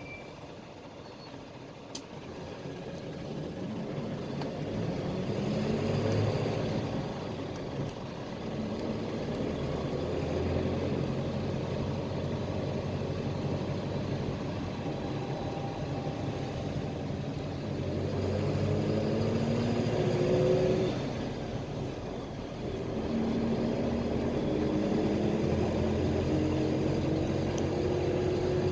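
PAZ-320405-04 Vector Next bus engine heard from inside the bus, pulling away and accelerating. It starts quiet, then climbs in pitch through the gears, dropping briefly at each shift: about six seconds in, again around twenty-one seconds in, then rising once more near the end. A single sharp click comes about two seconds in.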